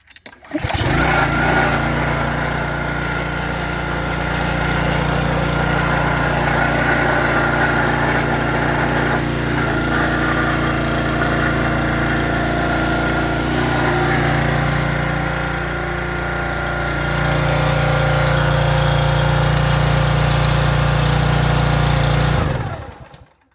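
Briggs & Stratton 875 EXi small single-cylinder engine on a log splitter starting about half a second in and running steadily, a little louder in the last few seconds. It is shut off near the end, its pitch sagging as it winds down.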